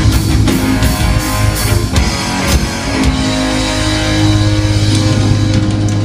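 Rock band playing live: guitar over bass and a drum kit, with no singing.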